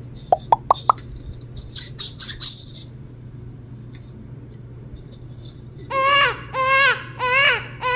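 Toy baby doll's electronic crying: a looped 'wah' cry repeated about twice a second, starting about six seconds in. Before it come four short high beeps and a brief rustle of plastic being handled.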